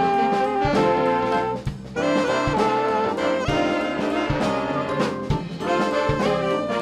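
Instrumental ensemble music led by brass horns holding and moving between notes over regular drum strokes, in a jazz style; the band drops out briefly a little under two seconds in.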